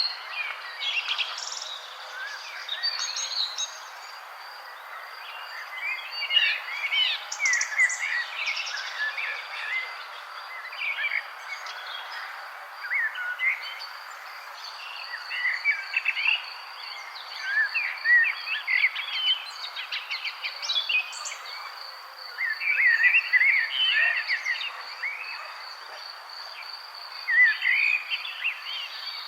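Many songbirds chirping and twittering in short, overlapping bursts of high notes over a steady background hiss. From about a quarter of the way in, a fast, even insect trill runs underneath.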